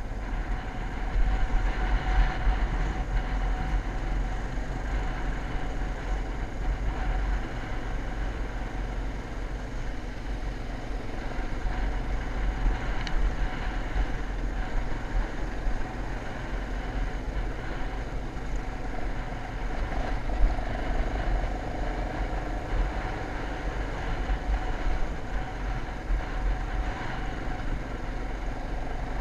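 Dirt bike engine running steadily while riding, with heavy wind buffeting on the microphone.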